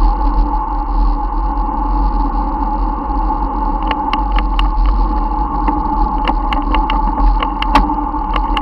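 Steady rolling and wind noise of a bicycle ride with a constant hum, joined about halfway through by scattered sharp clicks and rattles.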